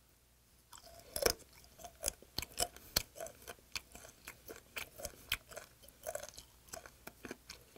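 Chewing a mouthful of raw yellow stingray sashimi with its cartilage bone: irregular crunches and clicks, a few a second, starting about a second in. The cartilage is still tough and takes hard chewing.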